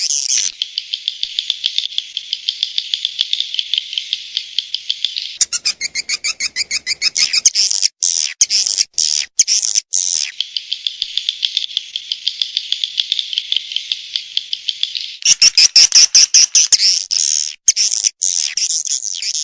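Swiftlet lure-call recording: dense, rapid, high-pitched twittering chirps of swiftlets, the kind played from swiftlet nesting houses to draw the birds in. Twice it turns louder and choppier, broken by brief gaps: about a third of the way in, and again past the middle toward the end.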